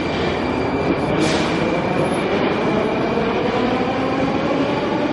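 Moscow Metro train running along the line: a steady, loud rumble of wheels on rails, with a faint whine that rises slowly in pitch as it goes.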